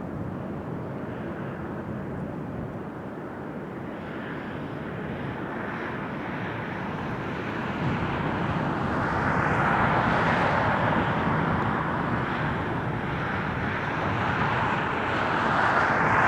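Jet airliner engine noise, a steady roar that swells about eight seconds in and grows louder again near the end.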